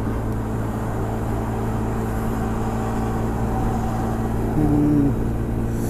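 Honda SH 300i scooter's single-cylinder engine running steadily at motorway speed under hard throttle to pass trucks, with wind and road noise over it.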